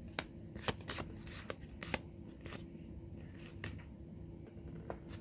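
Trading cards being flipped through one at a time, giving sharp paper snaps about two a second at first, then fewer and more spread out. A faint steady hum runs underneath.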